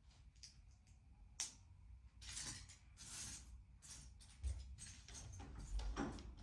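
Handling noise from LEGO pieces and packaging: scattered small plastic clicks, rustling and a few soft knocks.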